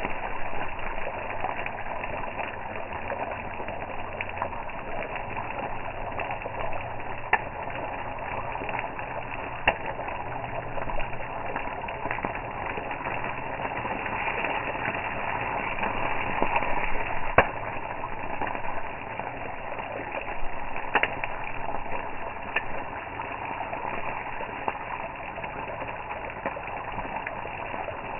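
Campfire burning: a steady crackle with a sharp pop every few seconds.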